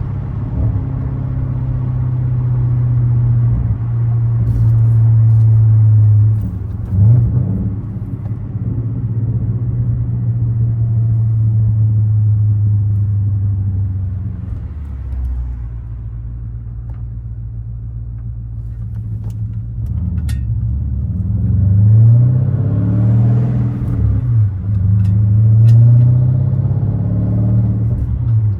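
2013 BMW 550i's twin-turbo V8, with catless downpipes, H-pipe and muffler delete, running under way as a steady low exhaust drone. Its pitch rises and falls briefly about seven seconds in, and again more than once from about 22 to 26 seconds in, as engine speed changes.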